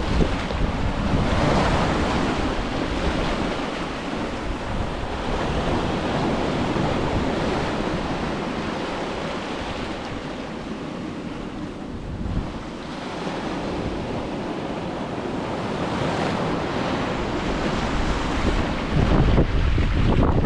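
Ocean surf breaking and washing up on a beach, swelling about a second in and again near the end, with wind buffeting the microphone as a low rumble.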